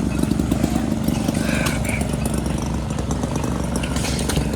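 Antique hit-and-miss stationary gas engines running, a steady low rumble of rapid firing pulses.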